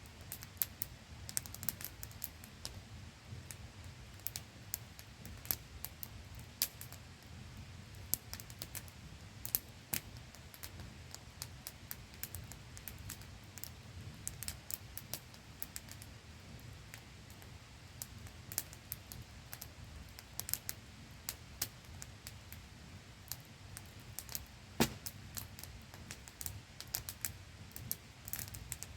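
Wood campfire crackling, with irregular sharp pops of varying loudness, over the steady static-like hiss of a small waterfall.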